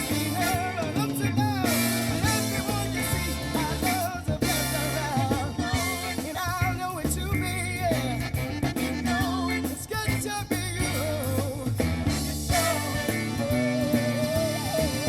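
A funk song with a lead vocal over bass, guitar and drums, played through a custom car audio system and heard inside the car's cabin.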